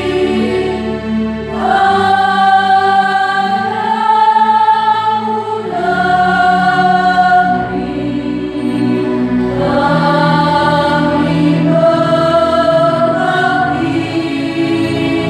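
Choir singing in several parts in long held notes, with a higher voice line coming in about a second and a half in.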